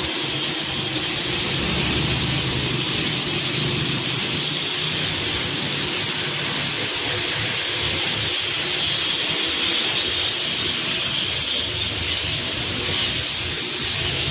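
A steady hiss, even and unbroken.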